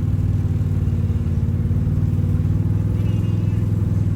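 A vehicle engine running steadily at a low, even pitch, with no revving.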